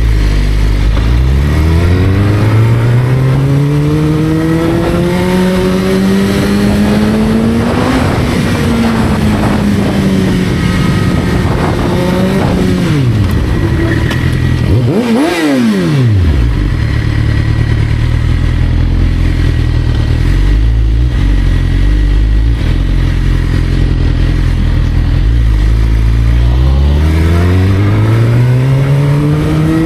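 Motorcycle engine revving hard: a long climb in pitch over several seconds that falls away, a quick sharp rev-and-drop about halfway through, and another long climb near the end.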